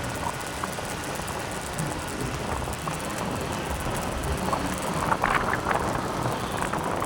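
Wind noise on the microphone and the running noise of a motorcycle on the road, steady, with a few short sharper sounds from about five seconds in.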